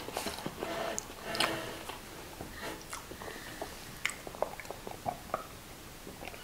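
Close-miked chewing and eating of instant noodles and fried chicken: soft wet mouth noises with scattered short, sharp clicks, busier in the first couple of seconds.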